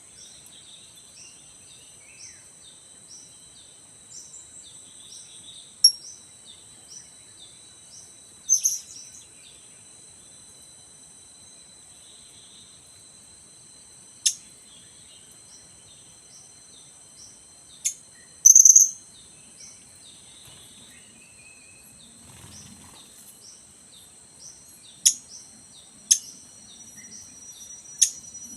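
Blue-crowned hanging parrots (serindit) give short, sharp, very high calls, about ten of them spaced irregularly, with the loudest a double call about two-thirds in. A run of quick falling chirps comes in the first third. Under it all runs a steady high insect drone.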